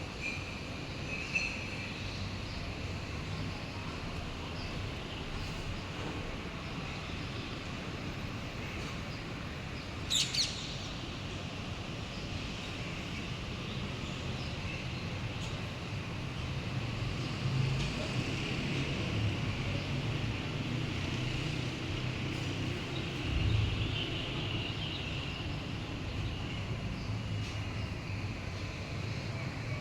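Small birds chirping over a steady low hum of distant traffic, with one brief sharp high-pitched sound about ten seconds in.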